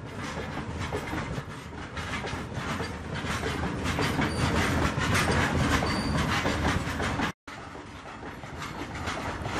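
Freight train's open wagons rolling past close by, a steady rumble with the clatter of wheels over rail joints. About seven seconds in the sound drops out for an instant, then another freight train's wagons clatter past.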